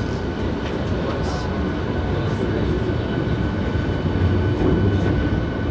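On-board running sound of a Hankyu 7300 series train (car 7807), a car singled out for its abnormal noise: a continuous low rumble of wheels on rail with a thin, steady high whine over it.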